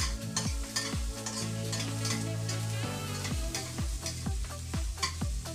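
Chopped garlic and ginger sizzling in oil in a stainless steel wok, stirred and scraped with a spatula. Under it runs background music with a steady kick-drum beat, about two beats a second.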